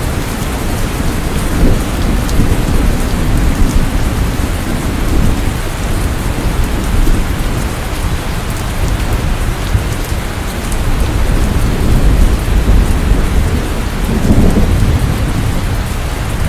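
Steady heavy rain falling, with low rolling thunder that swells in the first few seconds and again near the end.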